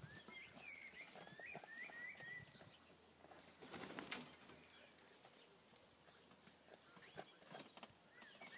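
Near silence: faint high bird chirps in the first two and a half seconds, a brief rustle about four seconds in, and a few faint clicks near the end.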